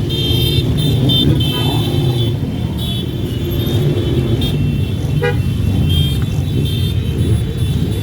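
A procession of motorcycles riding past, their engines running continuously, with short horn toots among them, one about five seconds in.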